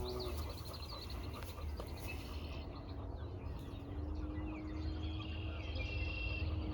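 Birds chirping and calling, many short repeated chirps, over a steady low rumble. A faint steady hum joins about halfway through.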